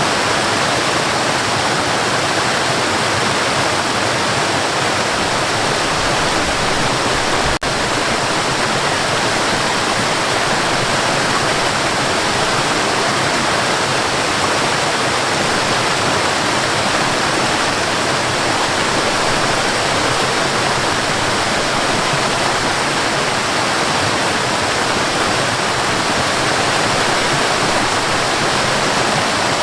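Waterfall rushing in a steady, dense roar of falling water, with a momentary dropout about eight seconds in.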